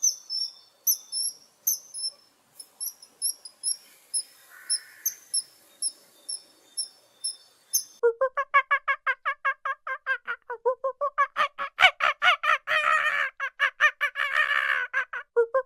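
High, thin bird chirps repeated about twice a second, then a sudden change about halfway through to a fast series of pitched, nasal honking calls from several waterfowl, several calls a second.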